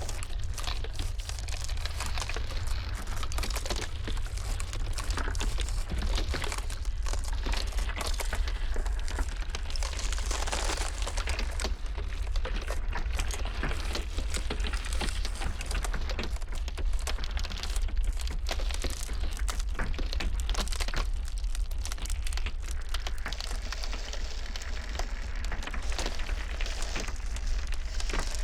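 Ice cracking and crackling in a dense, irregular stream of small snaps and pops, over a steady low rumble.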